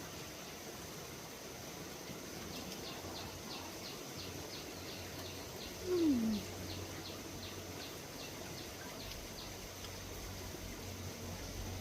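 Outdoor rural ambience: a steady high hiss under a run of quick, evenly repeated high chirps, about three a second, lasting several seconds. About six seconds in there is one short low sound that falls in pitch.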